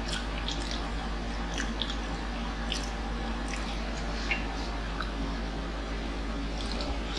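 Close-miked chewing and mouth smacking from people eating fried street food off skewers: many short wet clicks at irregular intervals, over a steady low hum.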